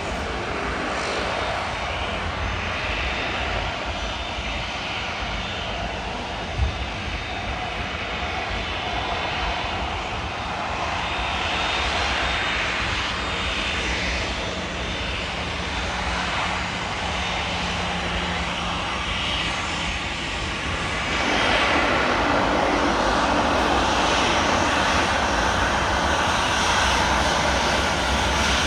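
Jet airliner engine noise, a steady rumble and hiss that grows suddenly louder about two-thirds of the way through. A single short click sounds about a quarter of the way in.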